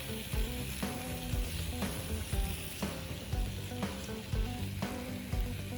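Seasoned horumon (offal) sizzling and frying on a hot iron plate.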